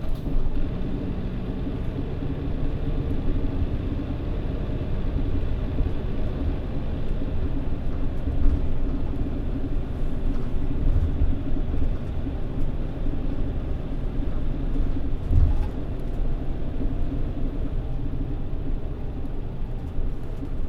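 Mitsubishi Fuso PJ-MP35JM city bus heard from inside the cabin: its diesel engine runs with a steady low rumble, with a few louder low thumps.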